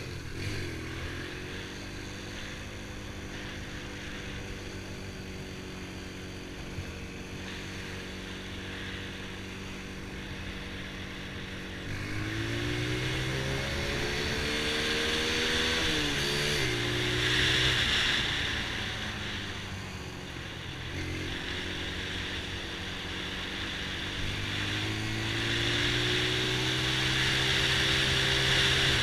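Honda TRX90 ATV's small single-cylinder four-stroke engine running steadily at low revs, then speeding up about twelve seconds in with the pitch climbing. The pitch drops around the middle and climbs again near the end as the quad is ridden, with a hiss that grows louder at speed.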